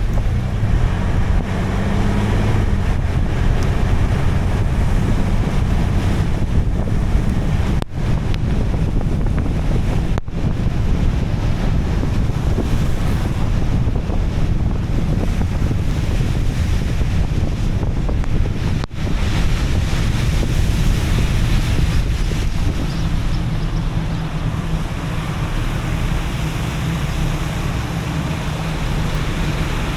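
Steady wind noise buffeting the microphone in heavy rain, cutting out briefly three times.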